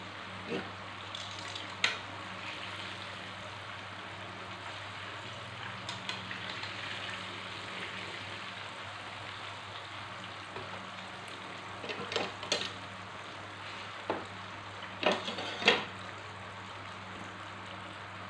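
Breaded chicken pieces shallow-frying in hot oil in a pan, a steady sizzle over a low hum. Metal tongs click against the pan and a metal tray a few times, once about two seconds in and in a cluster over the last third, as pieces are turned and lifted out.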